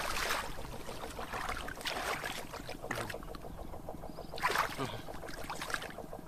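Water splashing and sloshing in a series of separate swishes, about five. A fast, even pulsing runs steadily underneath.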